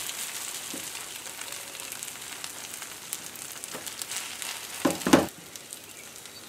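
Rice mixed with beaten egg frying in hot oil in a non-stick frying pan, a steady sizzle, as a silicone spatula spreads and presses it flat. Two brief louder scrapes of the spatula come about five seconds in, and the sizzle is a little quieter after them.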